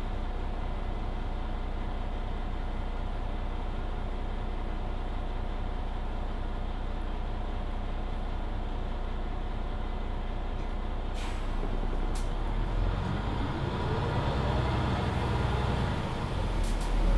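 Mercedes-Benz Citaro C2 hybrid city bus heard from on board: its diesel engine runs steadily at low revs while the bus stands. About eleven seconds in there is a short hiss of compressed air with a couple of clicks, as the brakes release. The bus then pulls away, getting louder, with a whine that rises in pitch.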